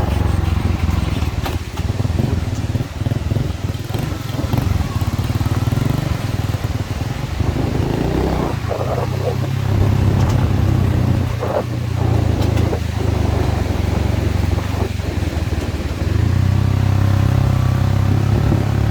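70cc single-cylinder motorcycle engine running steadily under way, growing louder near the end.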